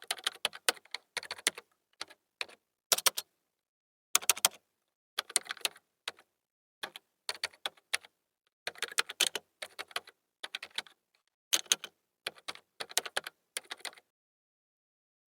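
Irregular runs of quick, sharp clicks with short pauses between them, like typing on a computer keyboard.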